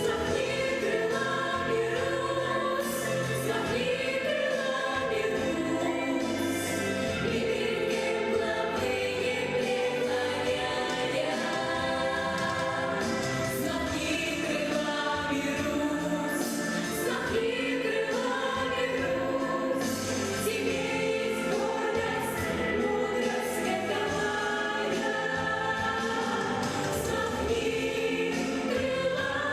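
Children's vocal group singing together as a choir, with musical accompaniment.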